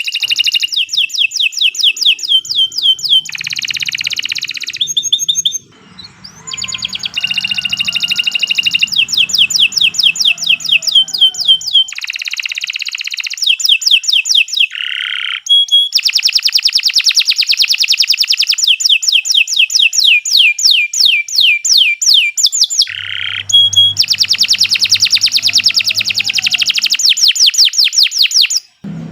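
Domestic canary singing a long, nearly unbroken song of fast trills, each a rapid run of many repeated sweeping notes. It changes from one trill to the next, with a short break about six seconds in and another near the end.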